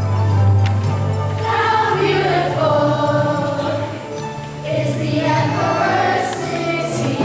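Music with a choir singing over sustained low notes; the voices come in about a second and a half in.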